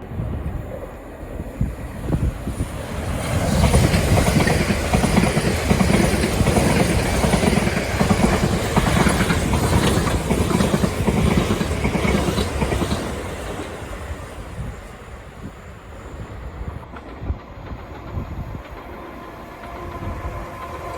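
A passenger train passing along the platform, its wheels clattering over the rail joints; the noise builds about three seconds in and dies away after about thirteen seconds.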